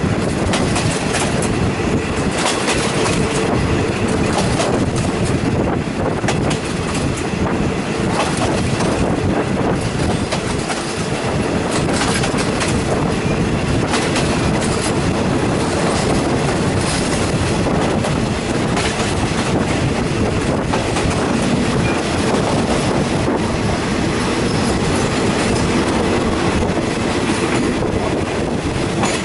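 Thai passenger train carriage running along the track, heard through an open window: a steady rumble with repeated clicks of the wheels passing over rail joints.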